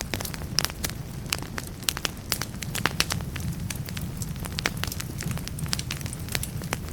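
Firewood burning in a fireplace, crackling with frequent irregular sharp pops over a low steady rumble.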